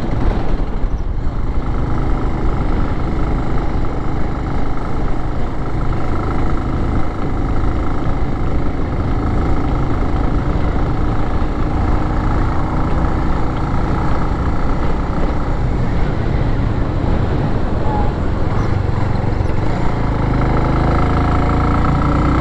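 Car driving at a steady pace: engine hum and tyre and road noise heard from inside the car.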